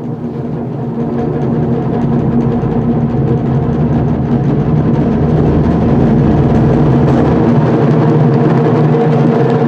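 Japanese taiko drums played in a fast, continuous roll with no separate strikes, growing steadily louder over the first few seconds and then holding loud.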